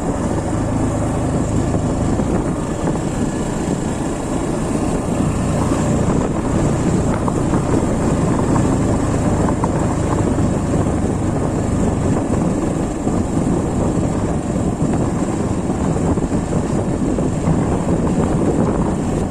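Sports motorcycle on the move, its engine running steadily under wind and road noise on the microphone, ridden slowly over a badly broken road.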